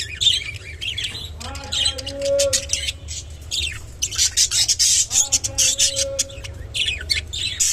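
Budgerigars chattering and chirping in rapid, high-pitched warbles with quick clicks. A lower, drawn-out call comes twice, about two seconds in and again from about four and a half seconds in.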